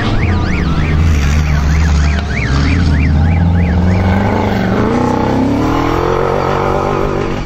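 Rally car engines running hard on track, with revs dropping and then climbing again in the second half. Through the first half a quick rising-and-falling whine repeats a few times a second.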